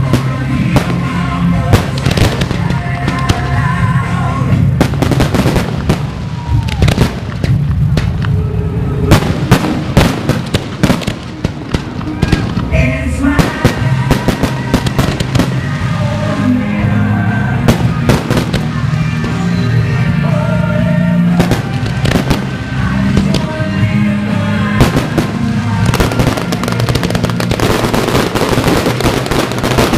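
Fireworks going off in a rapid, continuous string of bangs and pops over loud music. Near the end the music fades under a denser crackle of fireworks.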